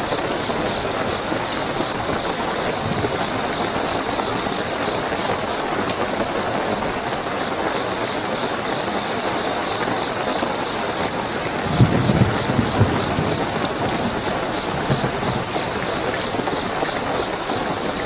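Steady heavy rainfall with crickets chirping in a continuous high-pitched trill. About two-thirds of the way through, a brief low rumble rises under the rain.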